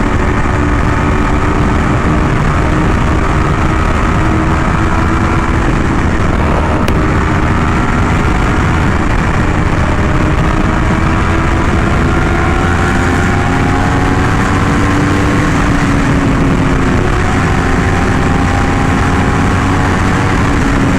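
Yamaha R1M's crossplane inline-four running through an SC Project exhaust, a steady engine note whose pitch drifts slowly up and down, over a dense low rumble.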